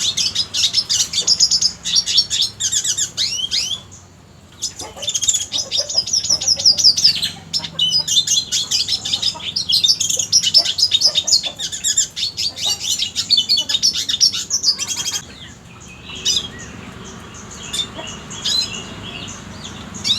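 Red siskin singing: long runs of rapid, high twittering and trilled notes, with a short pause about four seconds in and only scattered notes over the last few seconds.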